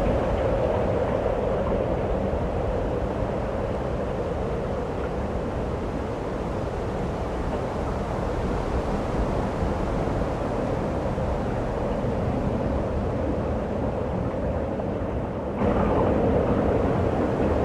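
Steady blizzard wind buffeting the microphone as a rumbling rush. It jumps suddenly louder near the end.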